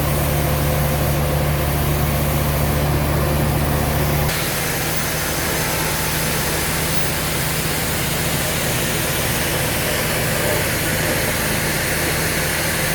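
Sawmill machinery running with a steady engine hum. About four seconds in the sound changes abruptly to a rougher, hissier machine noise.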